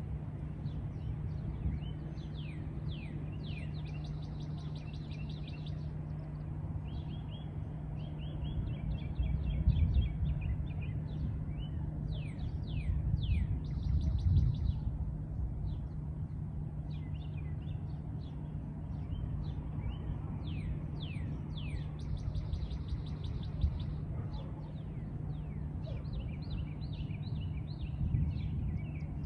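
Several wild birds calling and singing, with repeated quick downward-sweeping whistles and short buzzy trills. Beneath them runs a steady low hum and rumble, which swells to its loudest twice, about ten and fourteen seconds in.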